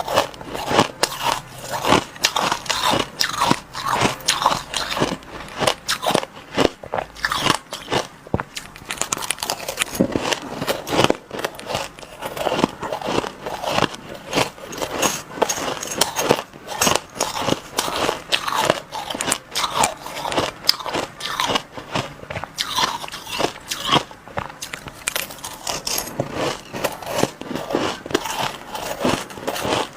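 Crushed ice being bitten and chewed close to the microphone: a dense, irregular run of crunches with no pause.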